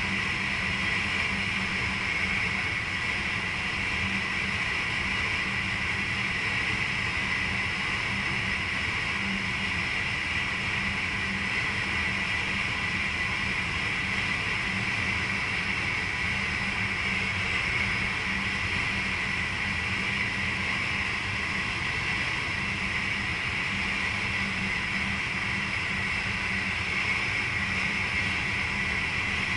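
Steady running noise of a VIRM double-deck electric train heard inside the driver's cab: an even hiss with a steady low hum, holding the same level throughout.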